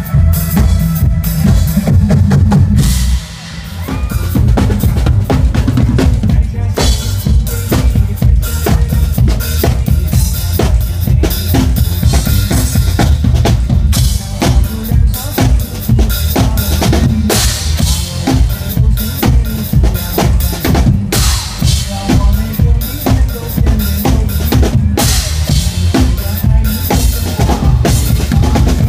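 Drum kit played live at a steady pop beat, with bass drum, snare, rimshots and cymbals, over a loud recorded backing track with heavy bass. The playing briefly drops away about three seconds in, then picks up again.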